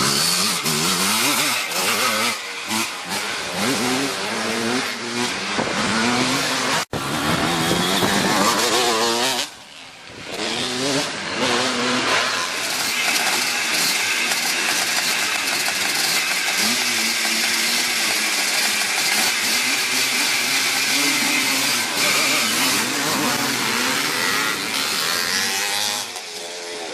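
Classic twinshock motocross motorcycles revving hard and racing past, their engine notes rising and falling as they accelerate and shift. The sound cuts off abruptly about seven seconds in and drops briefly a few seconds later.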